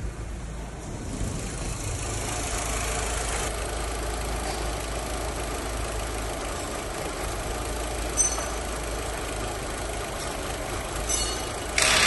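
Audi A4 B5's 1.8-litre turbocharged four-cylinder petrol engine (code ANB) idling steadily. A sharp click comes about eight seconds in, and the sound gets suddenly louder near the end.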